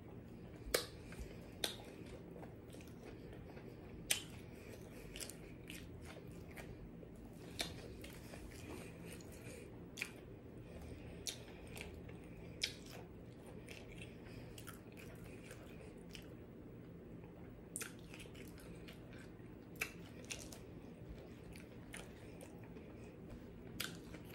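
Close-miked chewing of fried food, with sharp crunches and mouth clicks every second or two, over a faint steady low hum.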